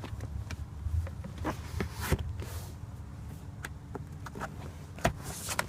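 Scattered clicks and knocks of the rear centre armrest and cup holder being handled, over a steady low hum. The clearest knocks come about two seconds in and again near the end.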